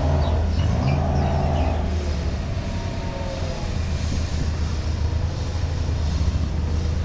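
Engine running steadily at a low hum, with a higher whine over the first couple of seconds.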